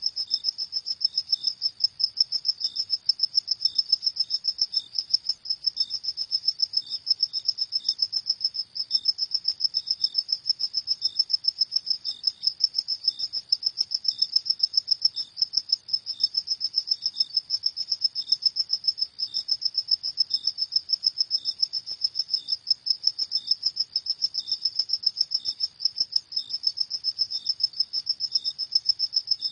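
Crickets chirping at night in a fast, steady trill of high-pitched chirps, with a second, slower cricket pulsing at a lower pitch about once a second.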